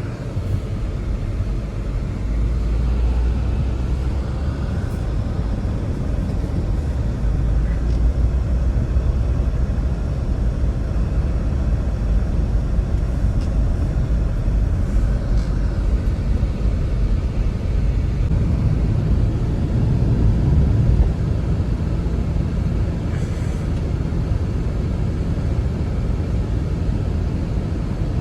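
Blizzard wind buffeting the microphone: a steady, rumbling rush of noise that swells briefly about two-thirds of the way through.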